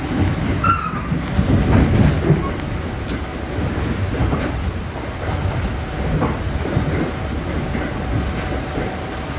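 Staten Island Railway train running along the track: a steady rumble of wheels on rail with occasional clacks, and a brief wheel squeal near the start.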